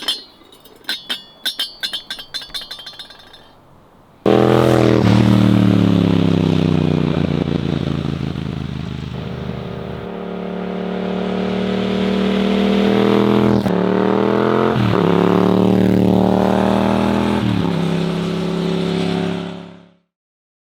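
A few seconds of light metallic clinks and rattles. Then a Yamaha MT-07 parallel-twin engine, breathing through an Akrapovic titanium exhaust with the DB-killer removed, starts loud and pulls hard through several gears, its pitch climbing and dropping sharply at each shift, before cutting off abruptly near the end.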